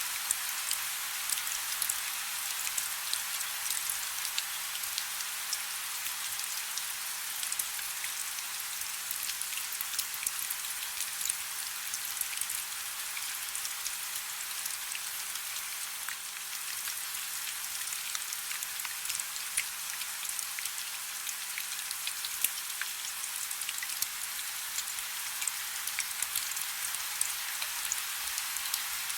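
Soft rain falling steadily: an even hiss dotted with many small, sharp drop ticks.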